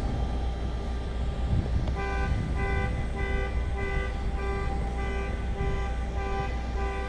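Electronic beeper sounding a steady string of short pitched beeps, about three every two seconds, starting about two seconds in, over a steady low rumble.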